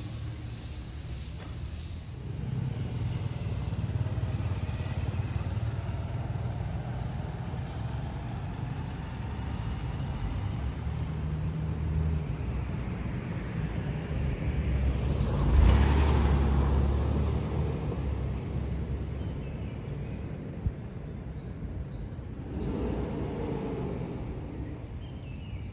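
Street traffic with a steady low rumble of cars. One vehicle swells louder as it passes close about two-thirds of the way through, and birds chirp faintly.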